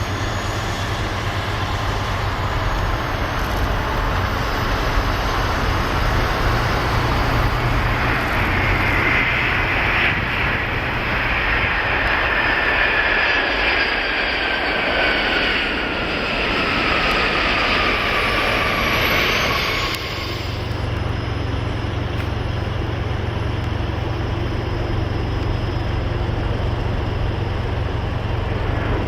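Boeing 747-400 freighter's four jet engines running on a landing approach, a loud steady rush with an engine whine that falls in pitch as the jet passes. Around two-thirds of the way in the whine fades and a low rumble is left.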